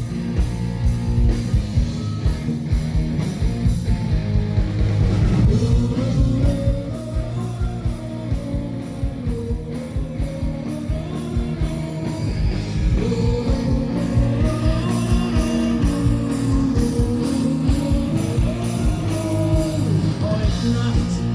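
Live rock band playing, with a steady drum beat and electric guitar; a melody line winds over it from about five seconds in.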